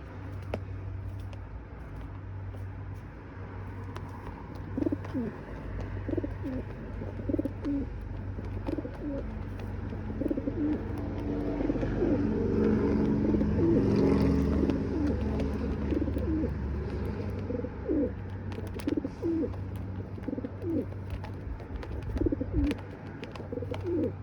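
Birds cooing in short, repeated low calls, thickest and loudest around the middle, over a steady low rumble.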